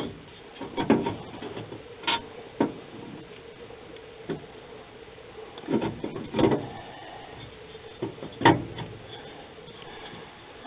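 Scattered light knocks and clunks, about half a dozen spread irregularly, of tools or metal parts being handled and set down on sheet metal.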